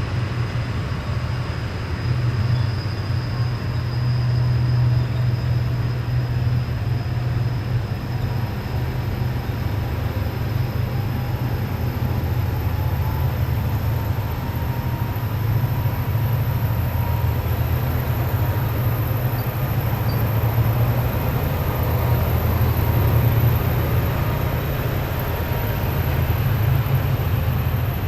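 Heavy military vehicles passing in a column, their diesel engines making a steady, deep rumble with a faint high whine above it.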